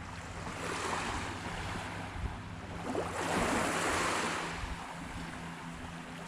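Small waves breaking and washing up on the beach, two swells of surf noise, the larger about three seconds in.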